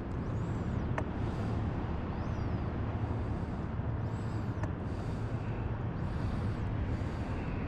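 Steady low wind rumble on the microphone, with faint splashes of water lapping about once a second and two light clicks.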